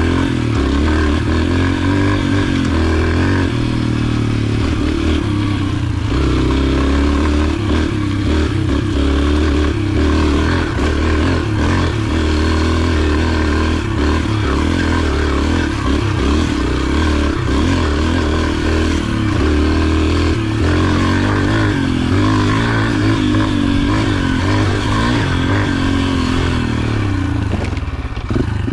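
Yamaha TT-R125's small air-cooled four-stroke single-cylinder engine running as the dirt bike is ridden, its pitch rising and falling with the throttle.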